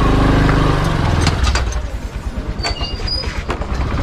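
Motorcycle engine running, a steady low drone for about the first second that gives way to a rapid low pulsing, with a few sharp clicks.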